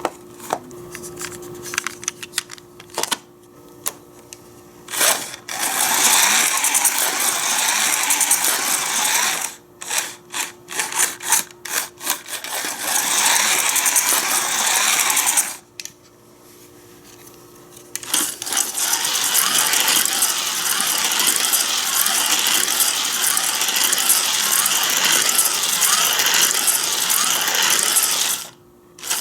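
Battery-powered Hot Wheels slot cars running on the plastic figure-8 track: a loud mechanical gear-and-motor rattle in long runs, with a wavering whine, stopping briefly now and then.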